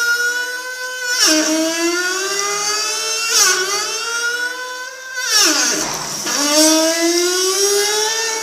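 Bathroom plumbing whining with a strong pitched tone that climbs steadily and then drops suddenly three times, like a Formula 1 car shifting up through its gears. A brief rushing hiss comes with the third drop, and the tone climbs again near the end.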